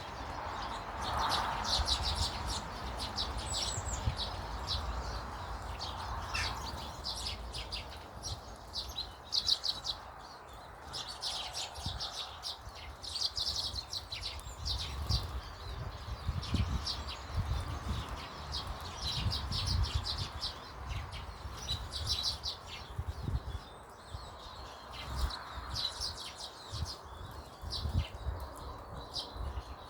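Small birds chirping in repeated bursts of short high calls every second or two, over a low rumble.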